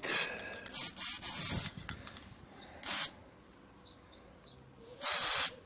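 Aerosol can of black paint spraying in several short bursts of hiss, spaced a second or two apart, with the last one near the end.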